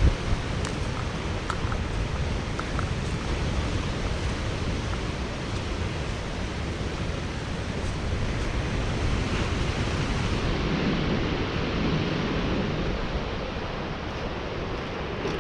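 Steady rushing noise of wind and waves, with low wind buffeting on the microphone; it swells a little about ten seconds in.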